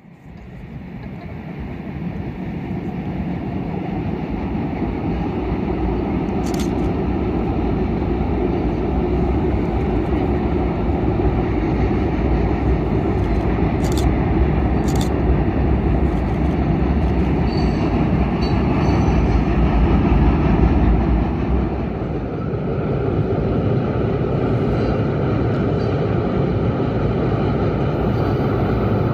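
Freight train rolling across a steel truss bridge: a steady, heavy rumble of locomotives and tank cars, with a few sharp clicks from the wheels and rails.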